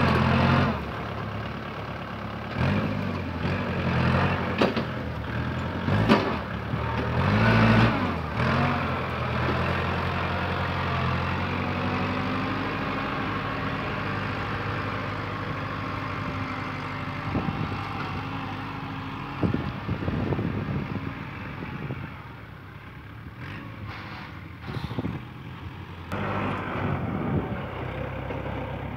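Kubota tractor's diesel engine running while plowing soil, with several louder surges in the first eight seconds, a steady spell after that, and a quieter stretch a little after twenty seconds before it picks up again near the end.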